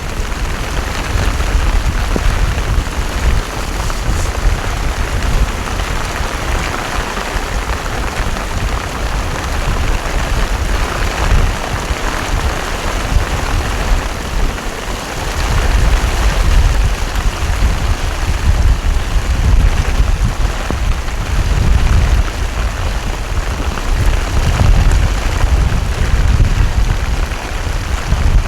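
Heavy rain pouring down steadily, with an uneven low rumble underneath that swells and fades.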